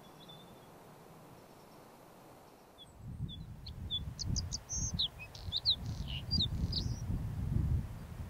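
A small bird singing a quick series of short, high, sliding notes, starting about three seconds in, over a loud, uneven low rumble.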